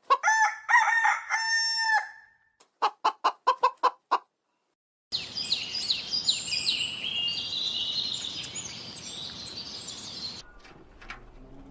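A rooster crowing once, one drawn-out call, followed by a hen's quick run of clucks. After a short gap come about five seconds of high, repeated falling chirps from birds.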